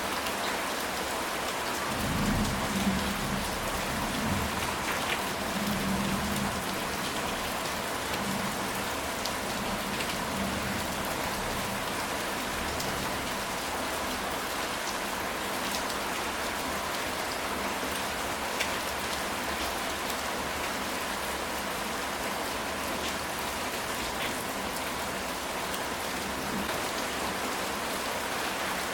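Steady rain falling on a ceramic tile roof. A low roll of thunder rumbles about two seconds in and fades away over the next few seconds.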